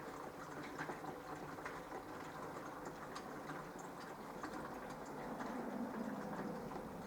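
Minicolo mini washing machine running a wash cycle: water sloshing and trickling in the drum, with many small irregular ticks and a faint steady hum.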